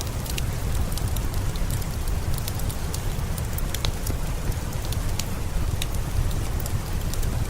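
Steady rain with a deep low rumble under it, mixed with the scattered sharp pops and crackles of a wood fire burning.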